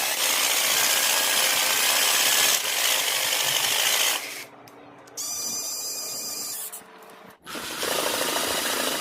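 Power tool work in short cuts: about four seconds of harsh rasping noise, then a brief high-pitched whine, then more rasping near the end.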